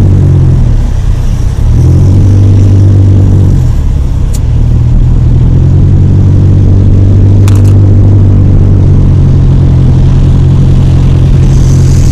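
Car engine and road noise heard from inside the cabin while driving, a steady low hum. The engine note dips and picks up again twice in the first four seconds.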